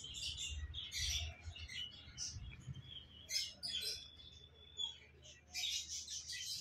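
Small cage birds chirping in quick, repeated bursts, one of them holding a thin whistle for about a second near the middle, over a steady low hum.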